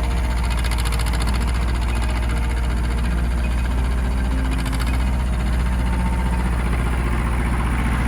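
Ford 1700 compact tractor's three-cylinder diesel engine running steadily.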